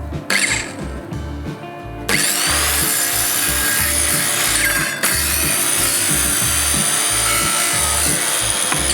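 Power drill boring into wood, running steadily from about two seconds in, with a short break about halfway through before it runs on. Background music with a steady beat plays underneath.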